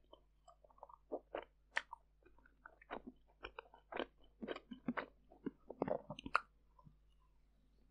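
Close-miked chewing of pumpkin pancake, with irregular wet mouth clicks and smacks, and a fresh bite about six seconds in.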